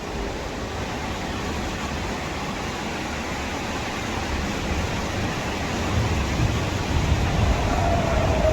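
Moving freight train heard from on board: a steady rumble of wheels on rail with rushing noise, getting heavier from about six seconds in, and a faint drawn-out squeal that falls slightly in pitch near the end.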